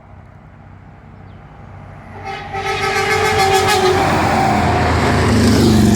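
Semi truck air horn blowing one long blast of several tones together, starting about two seconds in, as the truck's engine and tyre noise swell and it passes close near the end.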